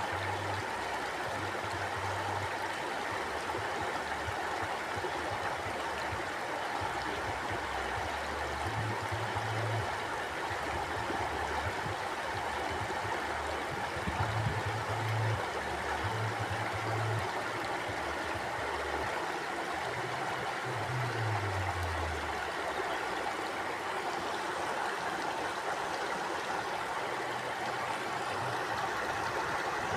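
River or stream water flowing steadily over rocks: a continuous, even rushing with no breaks.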